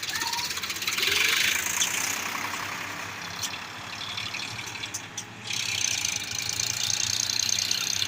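Diesel tractor engine running steadily while working a front loader, with a high, hiss-like noise over it that swells about a second in and again from about halfway on.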